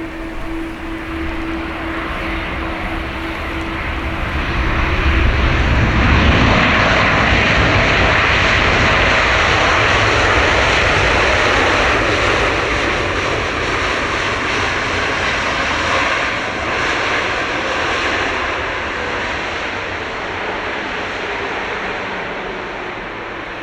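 Boeing 787-8 airliner's jet engines on a landing pass: a broad roar that swells, is loudest from about six seconds in, then slowly fades away.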